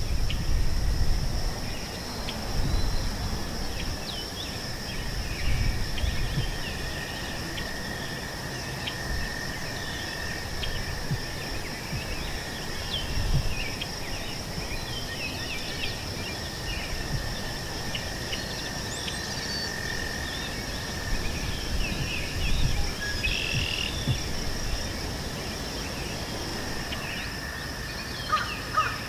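Meadow ambience: insects singing in two steady high drones, with many short bird chirps scattered over them and a low rumble of wind on the microphone underneath.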